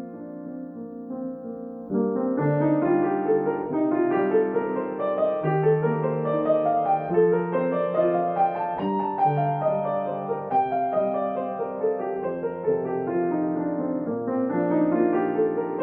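Solo piano playing a gentle new-age piece: a soft held chord, then from about two seconds in, flowing broken-chord runs that climb and fall in waves.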